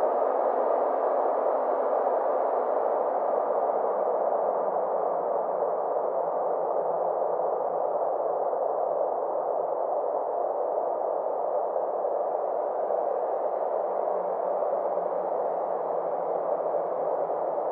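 Steady synthesized space-ambience drone, a soft even hiss centred in the middle range, whose brightness slowly dips and then rises again.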